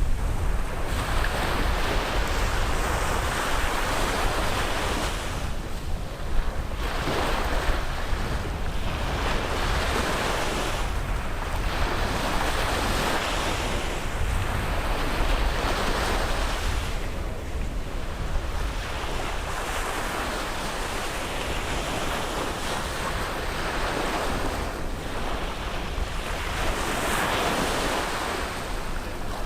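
Sea waves breaking and washing onto a beach, the surf swelling and easing every few seconds over a steady low rumble, with wind buffeting the microphone.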